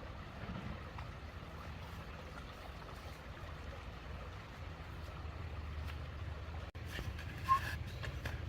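Steady low rushing of flowing stream water, with a few small splashes or rustles near the end.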